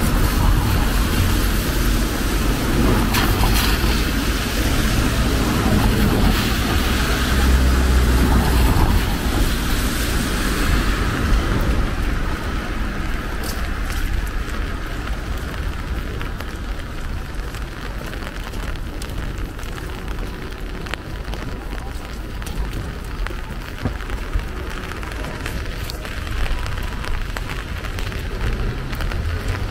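City street in the rain: rain falling and pattering, with the low rumble of passing road traffic that is heavier for roughly the first twelve seconds, then eases to a steadier wash of rain with scattered drop ticks.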